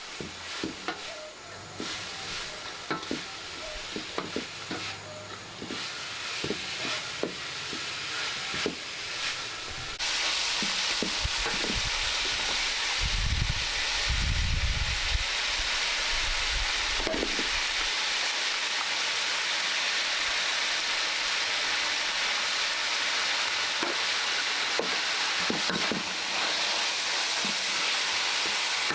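Food frying in a hot pan, sizzling, with a utensil clicking and scraping against the pan. About a third of the way in, the sizzling jumps suddenly louder and stays at a steady loud hiss.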